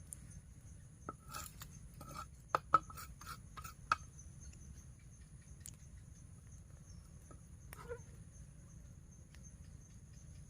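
Insects calling steadily in two high, unbroken tones, with a quick run of sharp clicks and knocks a second or so in and one more knock near the end.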